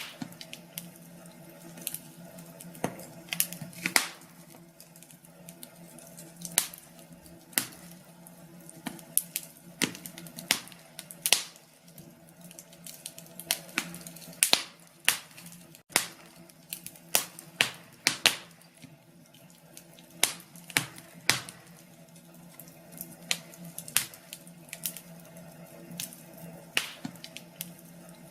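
Wood fire crackling in a fireplace, with irregular sharp pops and snaps scattered throughout, some much louder than the rest, over a low steady hum.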